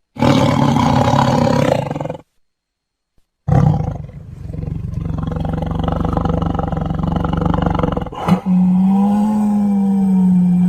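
Lion roaring: three separate roars with a short silence after the first, the second long and rough, the last steadier in pitch.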